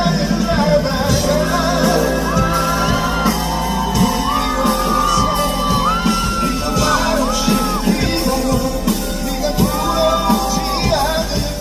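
Live concert music from a band in a large hall, with a singer holding several long notes that bend at their ends.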